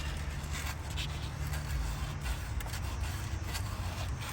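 Sandpaper rubbed back and forth by hand over a part's surface in repeated strokes, cleaning the mating surface before gasket sealant goes on.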